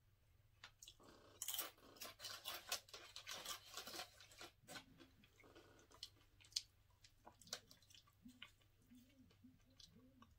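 Faint crunching of Doritos tortilla chips being chewed, with crackles of chips handled on a plate, thickest in the first half. Later a low, wavering hummed "mm" from the eater.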